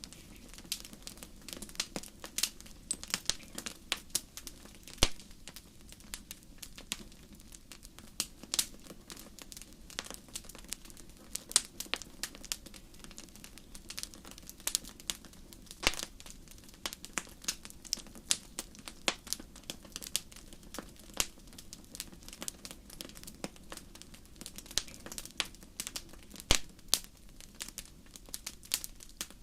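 Campfire crackling: irregular sharp pops and snaps from burning wood, several a second, over a low steady hiss of the flames.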